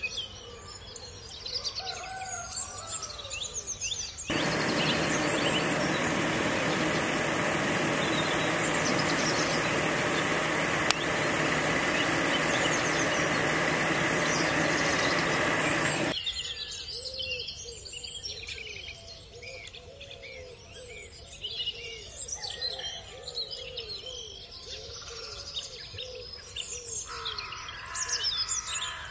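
Birds chirping and calling in short repeated notes. A loud, steady rushing noise cuts in abruptly about four seconds in and cuts off just as suddenly about twelve seconds later.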